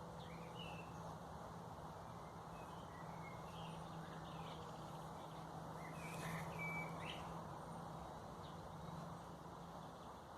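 Faint outdoor ambience: small birds giving short, scattered chirps over a steady low hum and a soft background hiss.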